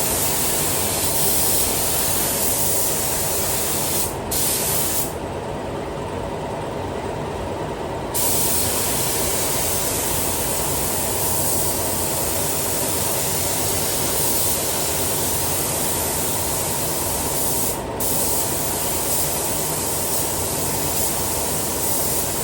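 Paint spray gun hissing in long passes as clearcoat is sprayed, the trigger let off briefly about four seconds in, again for about three seconds soon after, and once more briefly near the end. A steady low hum runs underneath.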